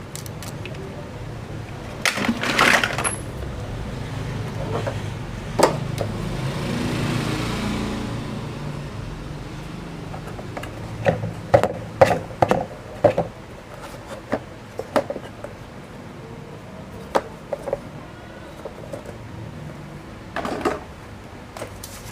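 Scattered knocks, clicks and clatters of toy vehicles being handled and set down, over a steady low hum, with clusters of sharper knocks about two seconds in, around the middle and near the end.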